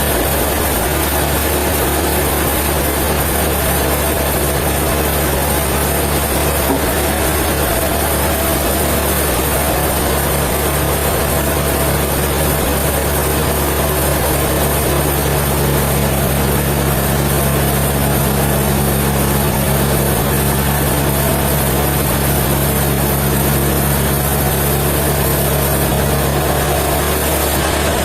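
Sawmill machinery running with a steady, loud drone, with a low hum joining in about halfway through.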